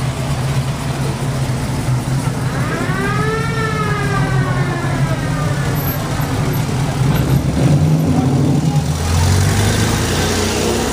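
Old car engine running with a steady low hum; near the end a vehicle passes close with a rush of tyre and engine noise. About three seconds in, a pitched tone rises and falls over a couple of seconds.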